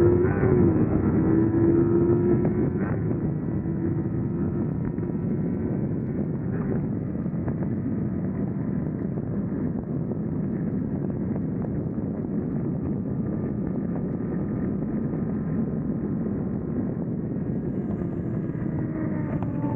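Motorcycle engine running steadily at speed, its drone clear at first and then buried under heavy wind rushing over the microphone.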